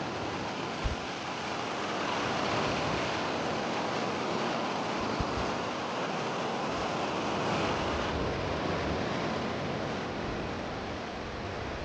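Sea surf washing onto a beach in a steady rush, with wind on the microphone and two brief low bumps, about a second in and about five seconds in.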